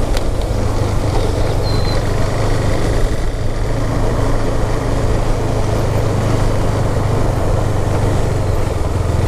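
Motorcycle engine running steadily while riding, under a steady rush of road and wind noise.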